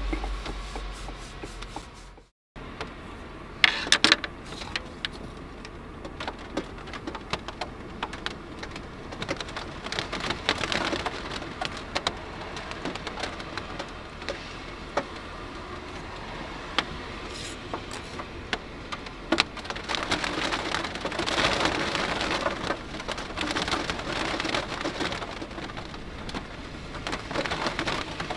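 Rain falling on the roof of a small van, heard from inside: a steady hiss with many sharp individual drop ticks, heavier around the middle and again in the last third. It cuts out completely for a moment about two seconds in.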